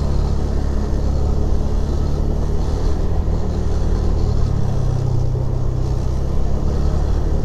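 Motorcycle engine running steadily at low revs in slow traffic, its note shifting slightly a little past halfway.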